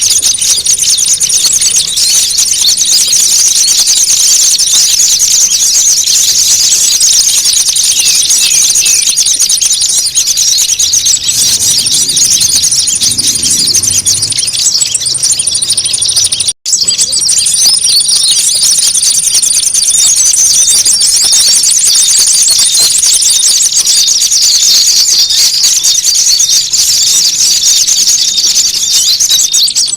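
A dense, loud chorus of small songbirds chattering and chirping nonstop at high pitch, with one sudden break about halfway through. This is a bird-lure recording of noisy, agitated calls meant to draw in small birds.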